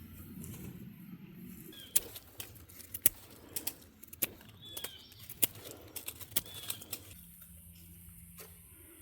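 Irregular sharp ticks and taps starting about two seconds in, with a few short bird chirps among them.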